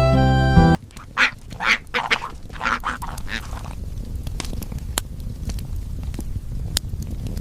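Background music cuts off under a second in, then a duck quacks about six times in quick succession. A low steady background with a few faint clicks follows.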